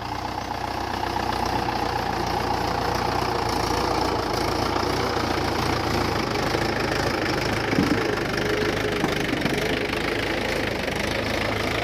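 Mahindra 575 DI tractor's four-cylinder diesel engine running steadily under load as it pulls a trolley of wet sand up out of a soft, rutted patch. It grows slightly louder over the first two seconds, with one short knock about eight seconds in.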